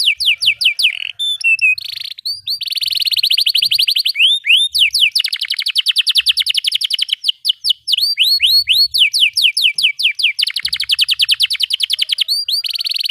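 Domestic canary in full song: a long unbroken run of rising whistled notes alternating with fast, tight rolls.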